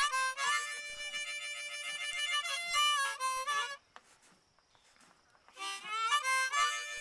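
Harmonica music: held, reedy notes that break off about four seconds in and come back after a pause of nearly two seconds.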